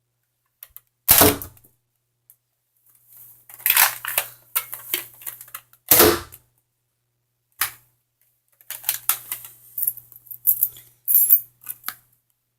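Plastic clicks and knocks of a Nerf blaster's rotating dart chamber being handled and loaded, with two louder knocks, one about a second in and one about six seconds in, and runs of quick small clicks between.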